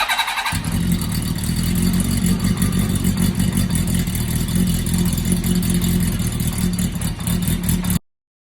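Honda CB400Four's inline four-cylinder engine running loud and steady after an overhaul with a rebore and oversize pistons; the sound comes in sharply about half a second in and stops abruptly near the end.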